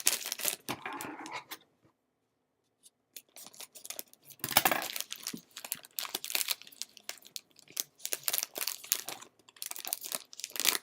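A plastic snack bag of jalapeño cashews being handled and opened: crinkling and tearing rustles with small sharp clicks. It pauses for about a second a couple of seconds in, and the loudest rustle comes near the middle.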